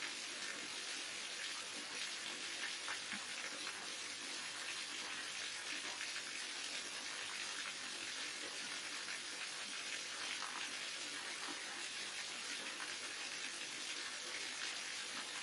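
Falling water from a waterfall: a steady, even rush and splash with no breaks or changes.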